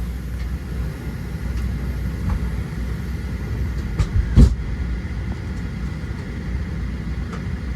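Steady low rumble of a Boeing 737-700's cabin air at the gate, with one loud thump about four seconds in.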